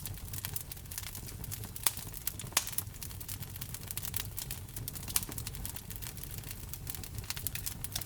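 Wood fire burning in a fireplace, crackling with a constant run of small irregular pops and snaps. A few louder pops stand out at about two seconds, two and a half seconds and five seconds in.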